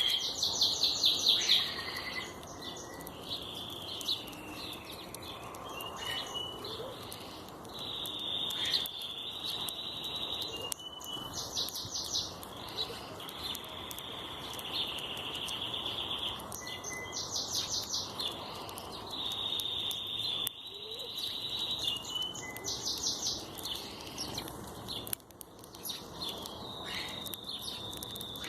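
Birdsong: a high held note alternating with a fast trill, the pattern repeating about every five or six seconds over a steady background hum of outdoor sound.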